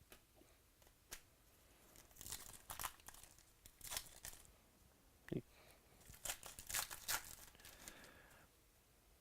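A foil trading card pack wrapper from 2018 Donruss Optic Baseball being torn open and crinkled, in two spells of crackling. There is a single dull knock about five seconds in.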